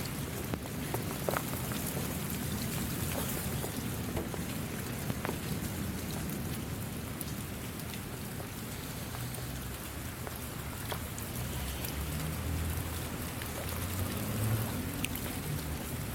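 Steady rainfall, with many individual drops landing as small distinct ticks over an even hiss. A low rumble runs underneath and grows stronger in the second half.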